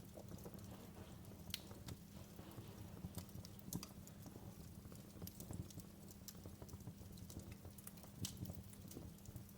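Wood fire crackling in a fireplace: irregular sharp pops and snaps over a low steady rumble, with a few louder snaps standing out.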